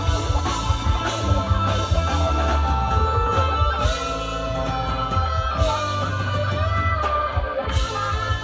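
Live rock band playing, led by electric guitar over a steady bass low end, with held guitar notes that bend in pitch about midway.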